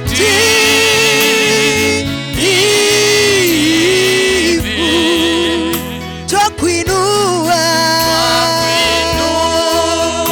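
Gospel worship song with a solo voice singing long held notes with vibrato over a steady bass and instrumental backing, the phrases breaking about two seconds in and again past the middle.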